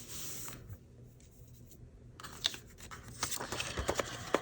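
Paper being handled on a craft table: soft rustles and scattered light taps and clicks, the sharpest tick near the end.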